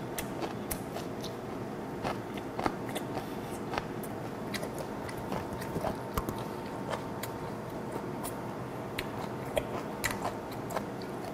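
A mouthful of samhap (fermented skate, boiled pork belly and aged kimchi) being chewed with the mouth closed, close to the microphone. Soft wet smacks and crunches come irregularly throughout, over a faint steady hum.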